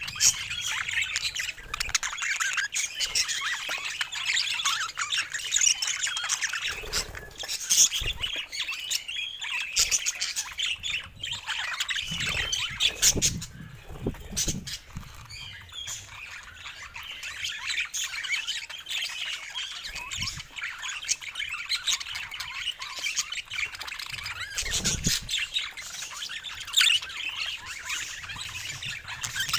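Budgerigars chattering and warbling continuously, with squawks mixed in, and a few low thuds now and then.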